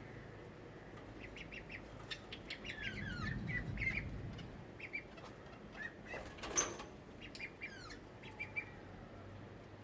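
Birds chirping: many short chirps and a few falling calls, with one louder call about six and a half seconds in.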